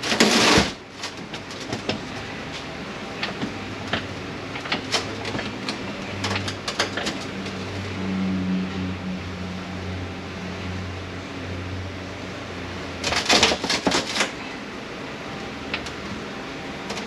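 Hands working on an 8L90 automatic transmission on the bench: scattered clicks and knocks of metal parts, a short scraping burst at the start and a clatter of parts about thirteen seconds in, with a low hum for several seconds in the middle.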